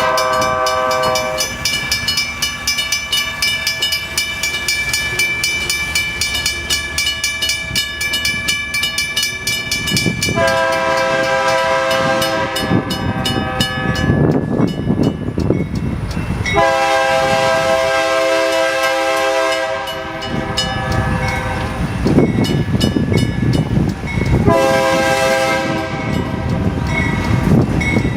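BNSF diesel freight locomotive sounding its multi-note horn in a series of blasts, one long blast in the middle, as it pulls a train of hopper cars past, with the heavy rumble of the locomotive and cars and a rapid ringing throughout.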